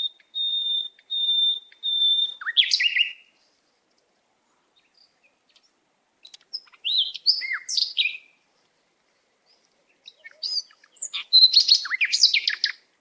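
A songbird singing: four short whistled notes on one steady high pitch, then three phrases of quick chirps and sweeping notes with pauses between them.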